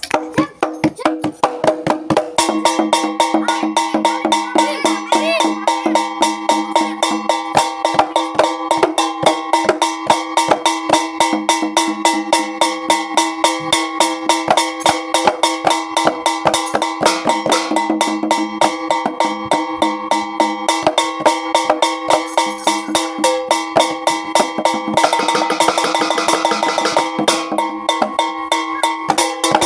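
Javanese jaranan ensemble music: fast, even drum strikes over steady ringing pitched tones from metal gamelan-type instruments. A brighter, hissier layer joins for a couple of seconds near the end.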